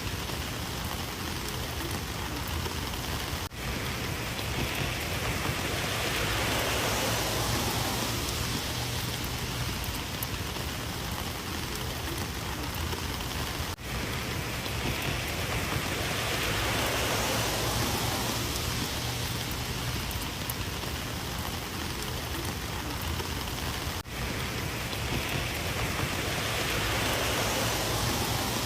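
Steady rain falling and pattering on surfaces, swelling and easing in waves, with a brief dropout about every ten seconds.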